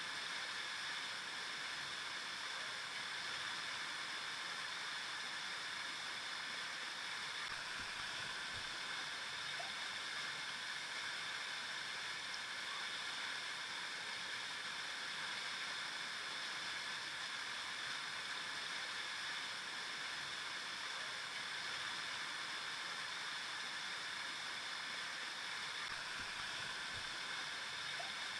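Flowing river water: a steady rushing with no breaks, strongest in its higher hiss.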